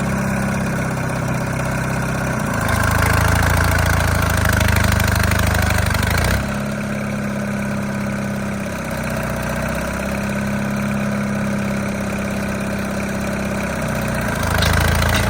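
Allis-Chalmers HD5 crawler bulldozer's two-stroke GM 3-71 diesel running under heavy load while pushing a stump. Its note drops and grows louder for about three seconds, a few seconds in, then recovers to a steady run, and dips again near the end.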